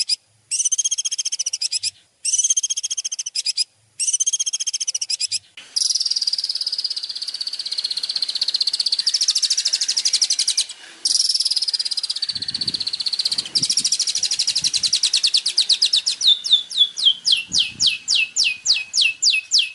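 Songbird song played as masteran: rapid, buzzy high trills, first in short bursts about a second long with brief gaps, then running unbroken, and near the end turning into a quick series of falling notes at about four a second.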